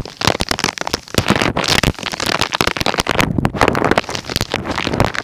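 Heavy rain pelting close to the microphone: a dense, irregular crackle of drops and pops.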